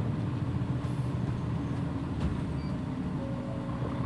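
Mitsubishi Fuso PJ-MP35JM city bus running, a steady low engine drone with road noise, and one faint click about two seconds in.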